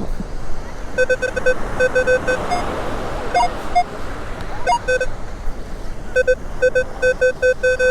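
Metal detector giving short, repeated beeps in quick runs at one steady pitch, with a few at a slightly higher pitch, as it signals a buried target that the detectorist suspects is junk.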